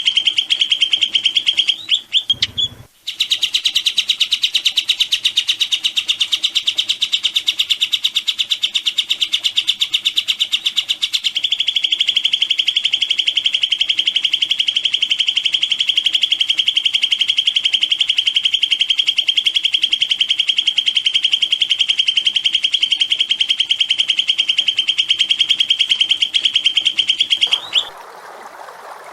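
A small songbird's very fast, machine-gun-like trill of repeated high notes, kept up without pause as a looped training recording, with a brief break about two to three seconds in. Near the end the trill stops and a rushing sound like running water takes over.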